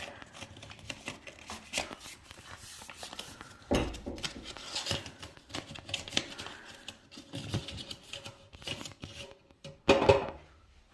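Irregular rustling and clicking handling noises, with a louder knock about four seconds in and another near the end.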